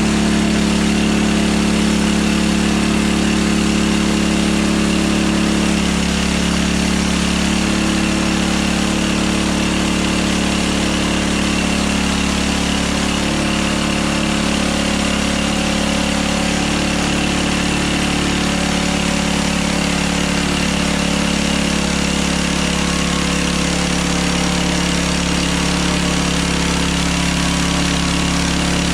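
Hudson Hunter bandsaw mill's engine running steadily at an even speed.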